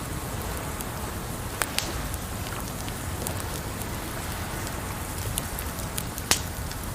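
Campfire crackling over a steady rush of water, with a few sharp pops from the burning wood, the loudest near the end.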